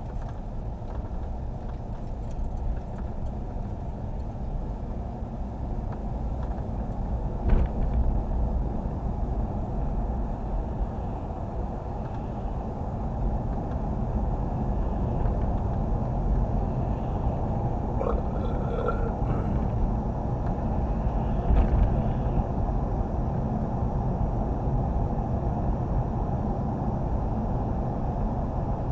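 Steady low road and engine rumble inside a moving car's cabin, with a single knock about seven and a half seconds in.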